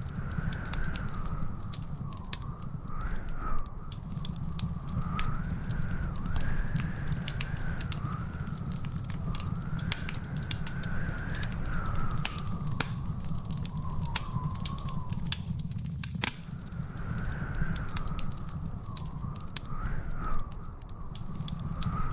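Wood fire crackling in a fireplace: a steady low rumble with frequent sharp pops. A thin, wavering whistle-like tone runs underneath it.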